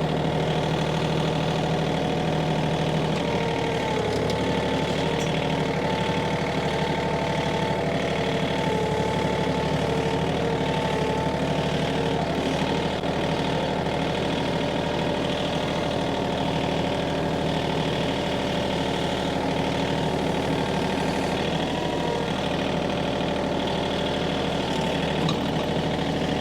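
Tractor engine running at a steady speed, its pitch shifting slightly a few seconds in and again near the end.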